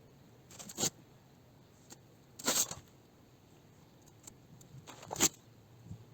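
Masking tape being pulled off the roll and laid down, three short tearing rips roughly two seconds apart.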